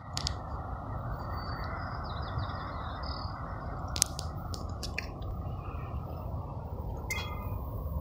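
Small birds chirping over a steady low rumble, with a few sharp clicks about four, five and seven seconds in.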